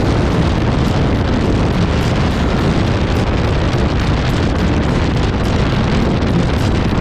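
Steady, loud wind buffeting on the microphone of a motorcycle riding at speed, a constant low rumble with no breaks.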